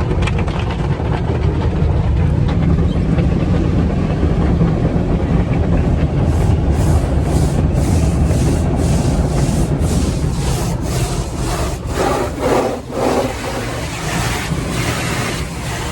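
Automatic car wash equipment working over a car: a steady low rumble, and from about six seconds in, a run of rapid repeated swishes.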